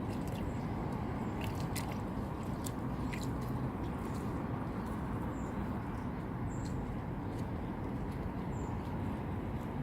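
Outdoor ambience: a steady low rumble with scattered light crackles and clicks, and three brief high chirps in the second half.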